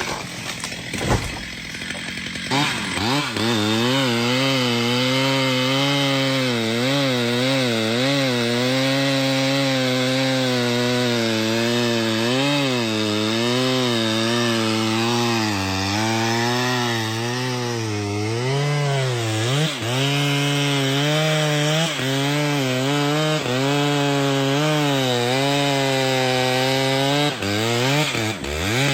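Chainsaw cutting through a tree trunk, its engine held under load with the pitch dipping and recovering as the chain bites. A few knocks and clatter come in the first couple of seconds before the steady cut settles in.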